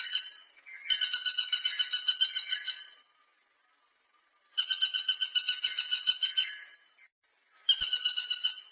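Woodpecker calling: a fast rattling series of high notes, about ten a second, in runs of about two seconds with short pauses between them.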